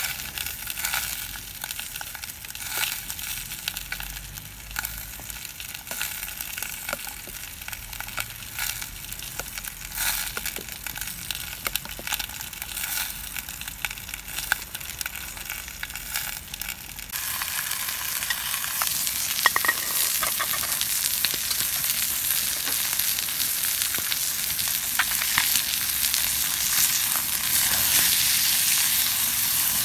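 Food frying in a pan over a campfire: a hissing sizzle with scattered small crackles. The sizzle turns abruptly louder and steadier a little past halfway.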